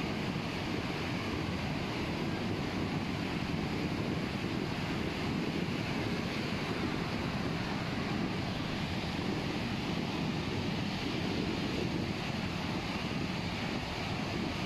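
Steady noise of surf washing on a beach, with wind buffeting the microphone.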